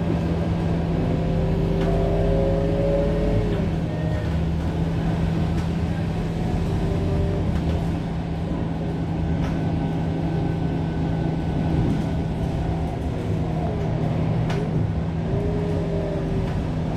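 Scania K230UB bus running, with a steady low engine drone and a drivetrain whine that glides up and down in pitch several times as the bus speeds up and slows.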